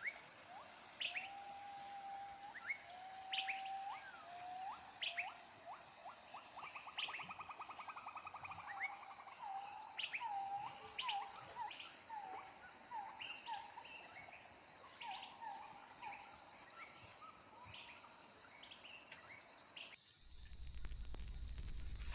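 Wild birds singing and calling: clear whistled notes, some held and some falling, with a fast trill about seven seconds in, over a steady high hiss. Near the end the birdsong stops abruptly and a low rumbling noise takes over.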